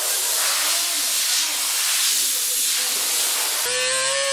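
A loud, steady hiss, and about three and a half seconds in a power tool's whine starts, slowly dropping in pitch.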